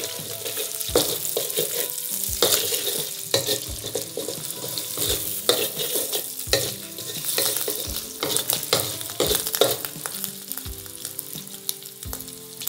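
Goat meat and shallots sizzling in hot oil in a wok, stirred with a wooden spatula that scrapes and knocks against the pan about once a second.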